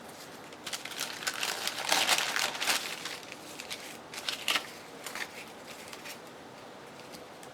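Craft papers being handled at a work table, with a run of irregular crinkling and rustling that builds to its loudest a couple of seconds in and dies away by about halfway through.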